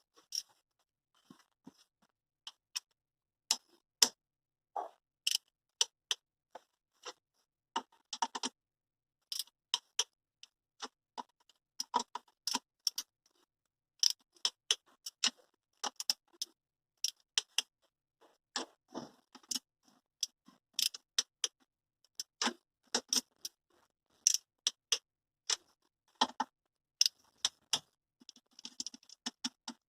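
Irregular sharp metallic clicks and taps, dozens of them with short silent gaps between, from hand tools at work on an engine.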